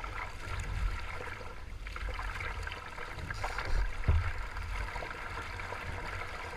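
Water lapping and sloshing against a kayak hull at sea, over a steady low rumble, with a single knock about four seconds in.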